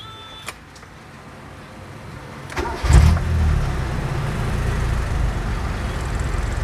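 Mazda 323 engine, heard from inside the cabin, cranking and catching about three seconds in, with a brief surge as it fires, then settling into a smooth, steady idle.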